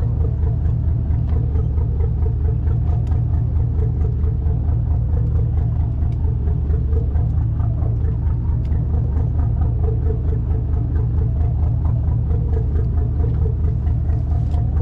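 Fishing boat's engine running steadily at idle, a constant low hum.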